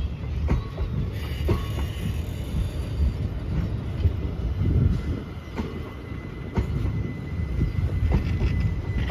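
Passenger train pulling out of a station and rolling past: a continuous low rumble of wheels on rails, with irregular clacks as the wheels cross rail joints and a faint high wheel squeal.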